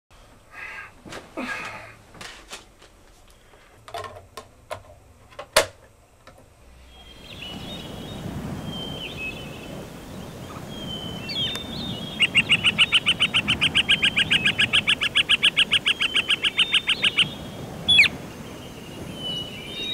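Nature-sound recording of birds: a steady outdoor background with scattered chirps, then a long rapid bird trill of about nine notes a second lasting some five seconds, and a single sharp call near the end. Before the ambience comes in, the first seconds hold only a few scattered clicks and knocks.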